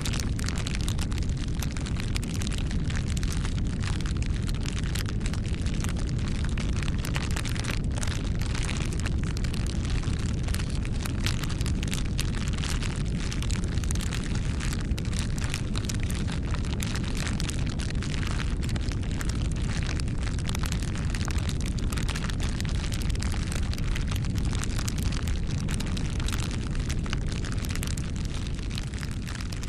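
Campfire burning steadily, with a constant low rumble and dense, irregular crackling and popping of the wood.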